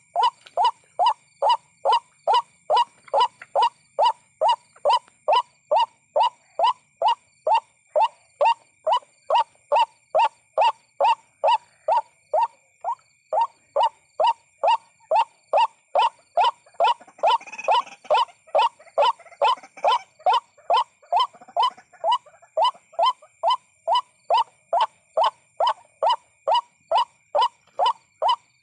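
White-breasted waterhen calling 'ruak-ruak' over and over at an even pace, about two calls a second, with no break. A steady high thin tone runs underneath, and a short burst of rustling noise comes just past halfway.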